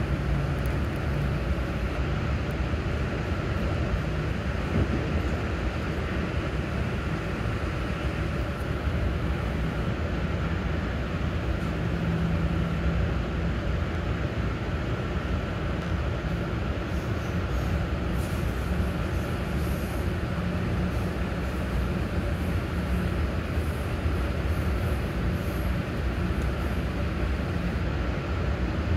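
MARC commuter train running steadily along the line, heard from inside a passenger car: an even rumble of wheels on rail with no breaks or changes.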